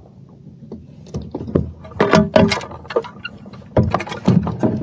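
Knocks and clatter in a plastic fishing kayak, quick runs of hard hits from about a second in and again near the end, as a just-landed bass is handled.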